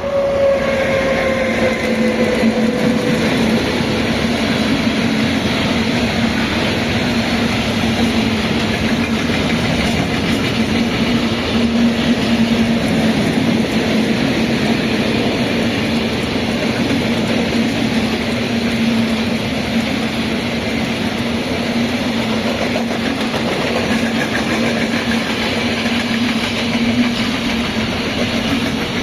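A train passing close by: the loudness jumps up at the start, then stays at a steady, dense rumble and rattle of wheels on rails with a constant low hum. A tone falls in pitch over the first few seconds as the front of the train goes past.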